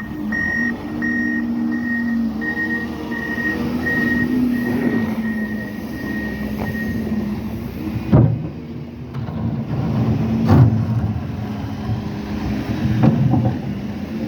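Diesel engine of a snow-clearing loader running, its backup alarm beeping steadily at about two beeps a second for the first seven seconds or so, then stopping. Two sharp loud clanks follow, about two seconds apart.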